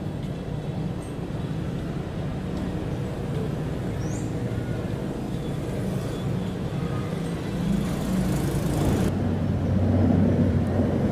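Steady low engine rumble. About nine seconds in the sound changes to a louder, deeper drone.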